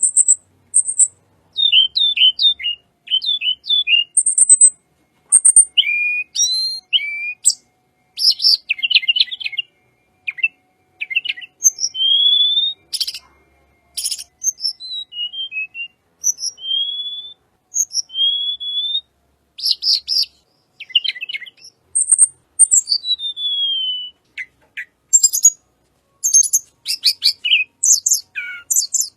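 Sulingan gunung (tledekan gunung) songbird singing a varied song: quick runs of short falling notes, very high thin notes, and clear whistles, several rising and one long falling one near the end.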